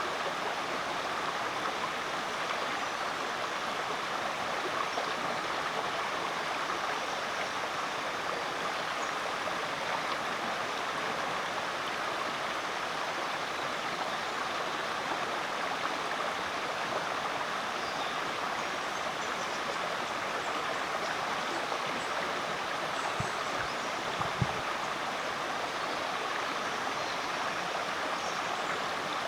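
Rainforest creek flowing: a steady, unbroken rush of running water.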